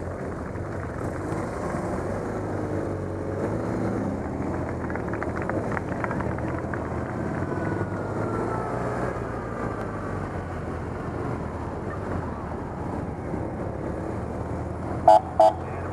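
Motorcycle engines running at low parade speed, a steady rumble with street noise. Near the end a horn gives two short toots.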